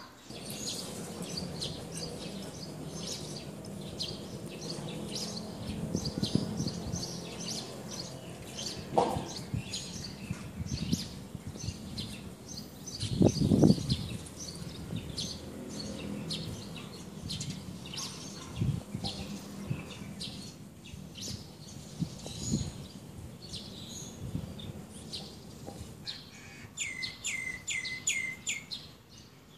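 Small birds chirping rapidly and continuously over a steady low background hum, with a louder low rumble about midway. Near the end a bird gives a quick run of five identical call notes.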